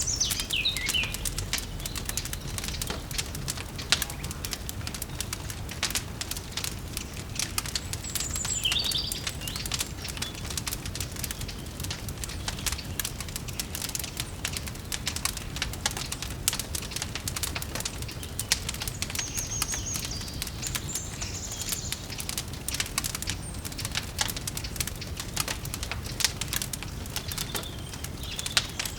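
Wood fire crackling with a steady stream of irregular pops and snaps over a low rumble. Small birds chirp in short high phrases now and then: at the start, about a third of the way in, past the middle and at the end.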